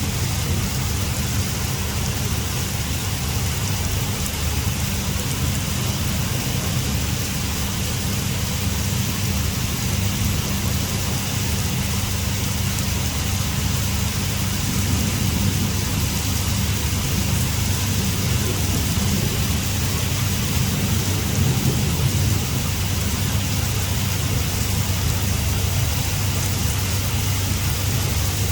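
Heavy rain falling steadily, an even hiss of downpour on surfaces with a continuous low rumble underneath.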